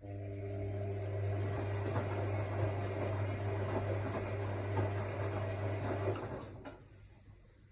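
AEG Lavamat L62850L washing machine: a steady mains hum with water rushing switches on suddenly, runs for about six seconds and fades out, followed by a click.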